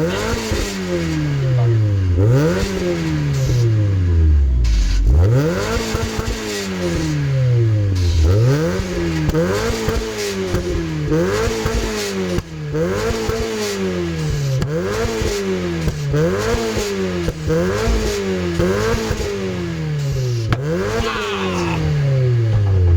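Mazda MX-5 Mk1's four-cylinder engine being revved in repeated blips, its pitch rising and falling about once a second. The first few revs are longer, and one longer rev dies away near the end.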